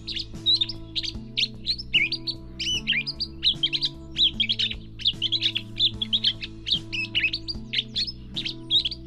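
Gray catbird singing a continuous, rapid jumble of short, varied whistled and chattering notes, the rich warbling song in which it slips mimicked phrases. Background music with sustained low chords plays underneath.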